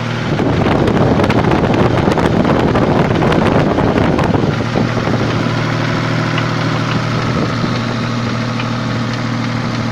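Toyota 7M-GE straight-six engine running at idle with a light tapping knock, louder and rougher for the first four seconds or so. The owner is unsure whether the tap is from the crankshaft or the cylinder head; specialists told him it is the crankshaft.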